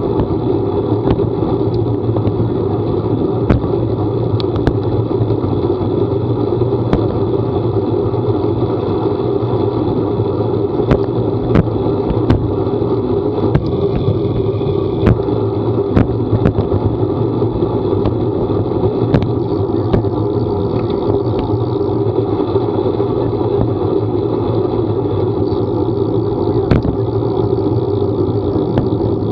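Steady running drone of a vehicle on the move, with an even low hum, scattered sharp ticks throughout.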